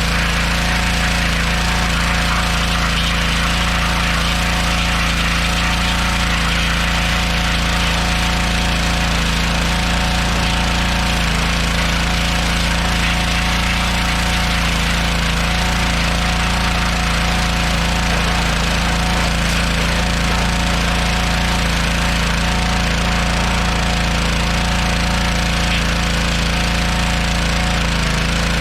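An engine running steadily at a constant speed, with a rough, rapid pulse and no change in pitch.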